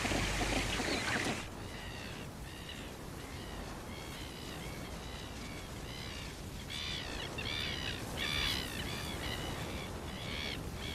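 Rockhopper penguins squabbling, a loud harsh racket that stops about a second and a half in. A bird then chirps over and over in short arched notes, thickest in the second half, over a low outdoor background.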